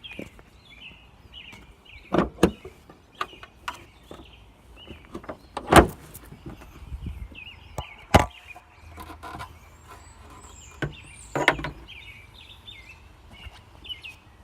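Clunks and knocks of a 1998 Ford Ranger pickup's door and hood being opened: about five sharp knocks spread through, the loudest about six seconds in.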